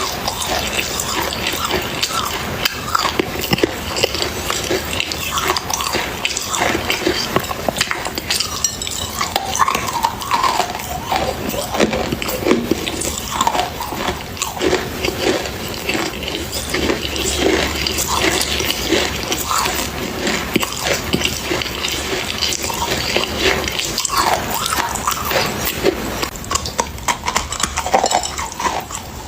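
Continuous close-up chewing and crunching of something brittle, a dense run of small cracks and crunches with no pause.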